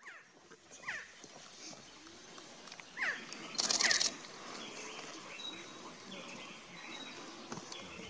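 Resplendent quetzal calling: about four short downslurred calls in the first four seconds, over a faint forest background with thin high tones. A brief burst of rustling noise, the loudest moment, comes just before four seconds in.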